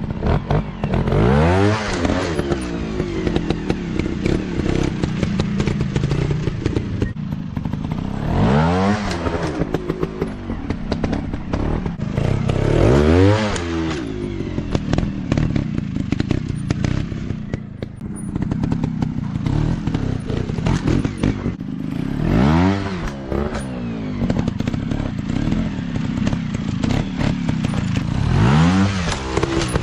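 Dirt bike engines running, with the pitch climbing steeply and dropping back about five times over a steady engine drone.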